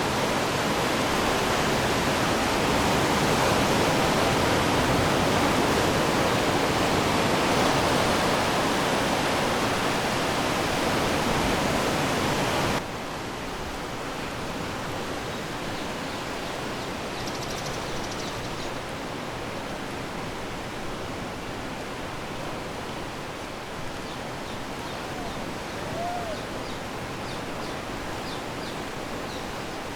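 Steady rush of ocean waves on the shore. About thirteen seconds in it cuts abruptly to a quieter, softer wash of surf, with a few faint high chirps near the end.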